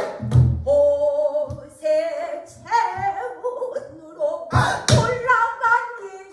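Pansori singing with buk barrel-drum accompaniment: a held, wavering vocal line over deep drum strokes about half a second in and around a second and a half, then a pair of strokes with sharp rim clicks near five seconds.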